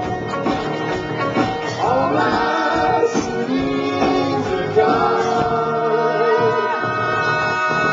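Live band playing a song, with long held sung notes over the instruments.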